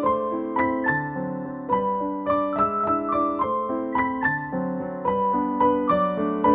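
Background music: a gentle piano melody playing at an even pace, several notes a second.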